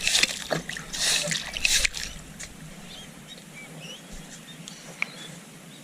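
Wet sand and water splashing out of a yabby pump in a few bursts over the first two seconds, then settling to faint trickling and dripping.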